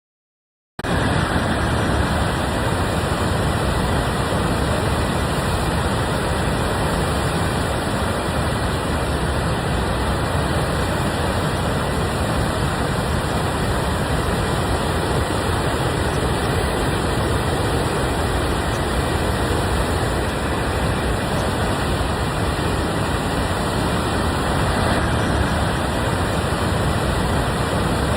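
Steady roar of the flooding Skykomish River pouring over Eagle Falls, an even rushing noise with a deep rumble underneath. It starts abruptly about a second in and cuts off sharply at the end.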